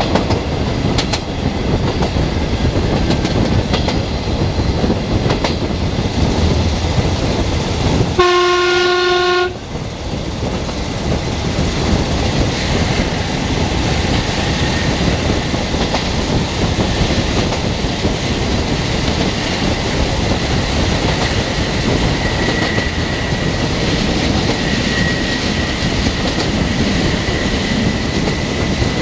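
Passenger train running along the line, heard from on board beside the window: steady rumble of wheels on rail and rushing air. About eight seconds in, one horn blast of just over a second.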